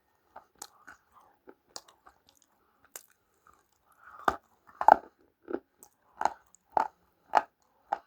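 A person chewing crunchy food close to the microphone: faint scattered crunches at first, then from about halfway louder, steady crunching bites about twice a second.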